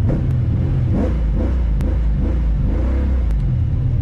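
A car engine revving, its pitch rising and falling several times over a heavy low rumble.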